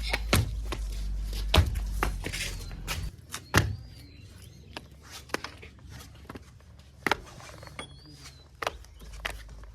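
Scattered knocks and thuds, with a low rumble that stops about three seconds in and a few faint high chirps.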